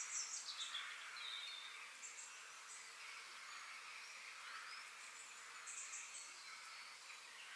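Forest birds chirping: short high calls, a falling sweep at the start, a rising whistle about halfway and a buzzy high trill later, over a steady high background hiss.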